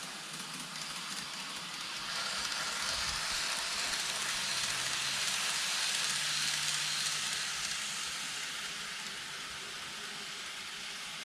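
Greenmax N-gauge Hanshin 9000 series model train running on track: a steady rolling hiss with a low motor hum. It grows louder about two seconds in and fades again after about eight seconds as the train passes.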